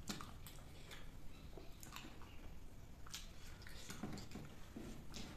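Close-miked eating sounds: mouth-closed chewing with wet clicks and smacks, and fingers mixing rice on a banana-leaf plate, in irregular short clicks and squishes.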